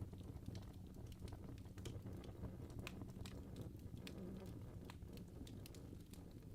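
Fire crackling: small, irregular pops and snaps over a soft low rumble.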